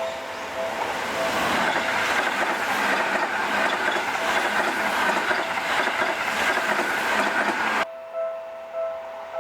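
Seibu Railway electric commuter train passing at speed, its wheels rumbling and clattering over the rail joints. The sound swells over the first second and cuts off abruptly near the end. A repeating two-note ringing goes on underneath and after the cut.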